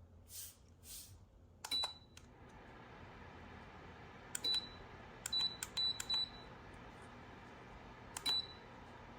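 Control-panel buttons on a Lasko ceramic tower heater being pressed: six short high beeps, each with a click, as the timer button is pushed repeatedly. Once at about two seconds in and then in a quick run of three near the middle. A steady whir of the heater's fan runs underneath from about two seconds in.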